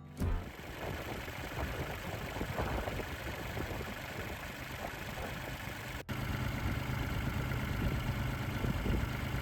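Perkins 403-15 three-cylinder diesel engine in a JCB 803 mini digger running steadily, with a brief break about six seconds in.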